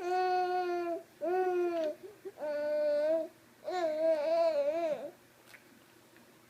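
A baby vocalizing in four drawn-out, steady vowel sounds, the last one wavering up and down in pitch.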